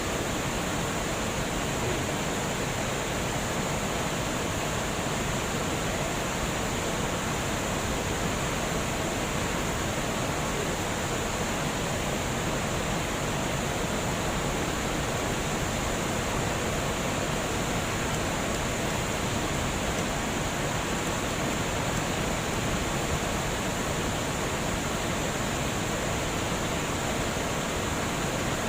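Water flowing over a dam, a steady rushing with no changes.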